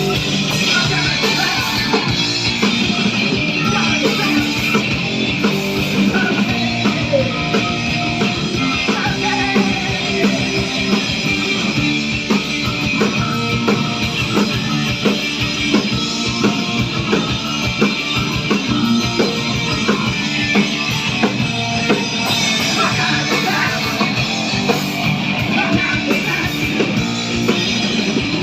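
Rock band playing live at full volume: electric guitar and drum kit in a dense, unbroken wall of sound, with singing.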